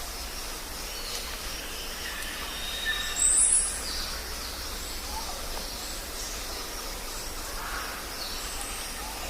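Jungle ambience: a steady background hiss and low rumble, dotted with short high bird calls, with one loud, high rising call about three seconds in.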